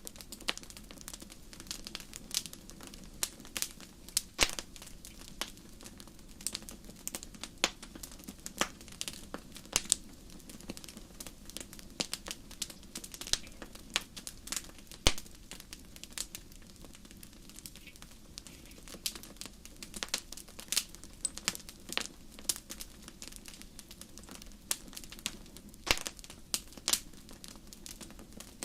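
Wood fire crackling in a fireplace: irregular sharp pops and snaps, several a second, some louder than others, over a low steady rumble of the burning.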